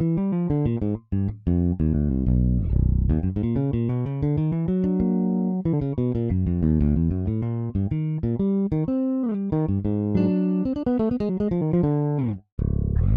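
EZBass virtual electric bass playing a funk bass line: quick, short plucked notes with a few slides in pitch, breaking off briefly near the end.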